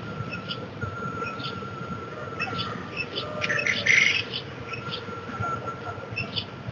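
Birds chirping in short repeated calls, with a louder flurry of calls about three and a half seconds in, over a faint steady high tone.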